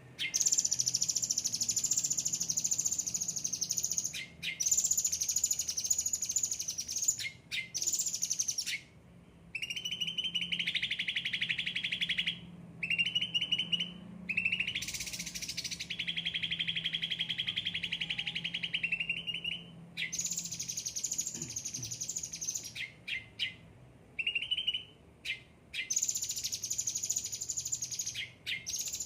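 Yellow-headed 'ocean green' cucak ranting songbird singing in long, fast trills, switching between higher-pitched and lower-pitched phrases, each lasting a few seconds with brief pauses between them.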